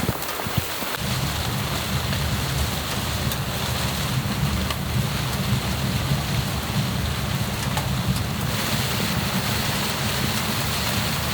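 Steady rain pattering on a tent, with a low rumble of wind joining about a second in.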